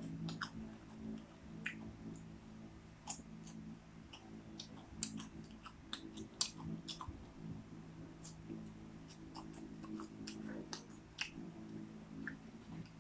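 Popcorn being chewed and crunched, with scattered sharp crunches and clicks, over a steady low hum.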